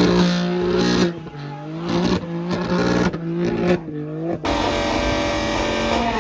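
Performance car engines revving and accelerating, their pitch climbing and dropping several times, in short clips cut together so the sound changes abruptly a few times.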